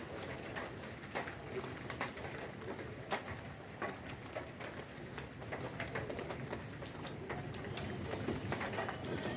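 Steady rain with scattered sharp drips and drops spattering on hard surfaces, and a pigeon cooing faintly near the start.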